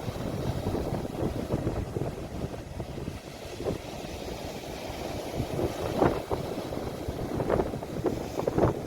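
Sea waves washing, heard as a steady low rumble with wind buffeting the phone's microphone; a few brief louder splashes come near the end.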